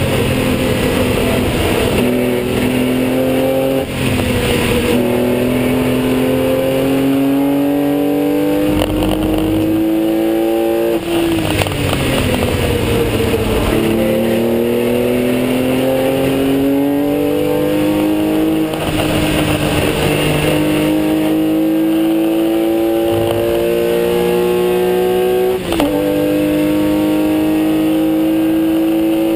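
The 3.4-litre flat-six of a Porsche 996 Carrera 2 at full throttle, heard from inside the caged cabin: revs climb steadily for several seconds at a time, with a quick drop in pitch and loudness at each upshift, about four seconds in, around eleven seconds and near twenty-six seconds, the revs easing briefly after the second before climbing again.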